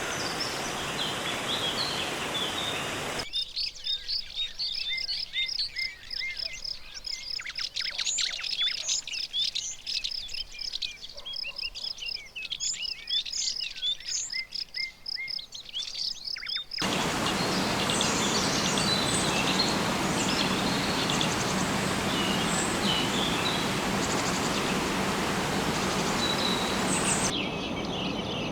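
Many birds chirping and calling, short high overlapping notes, with a steady rushing noise underneath that drops away and comes back abruptly, a couple of times.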